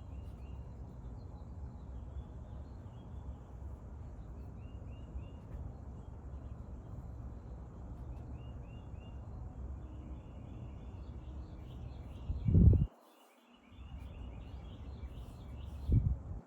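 Small birds chirping in short runs of three or four quick notes over a steady low rumble. Two dull low thumps, the loudest sounds, come near the end, each followed by a brief dip in the background.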